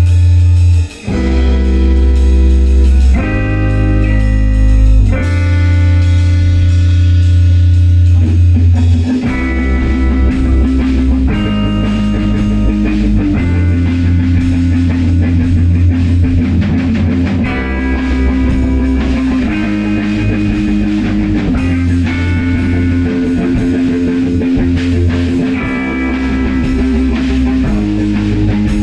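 A rock band playing without vocals: guitar chords over bass and drums. The playing breaks off briefly about a second in, and from about nine seconds in it turns busier and more rhythmic.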